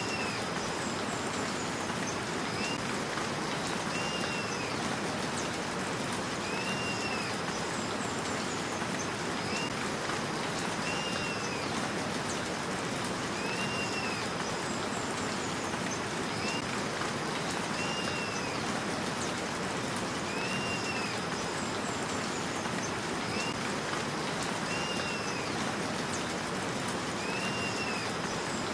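Steady rain falling, with a short high rising-and-falling call repeating about every two seconds.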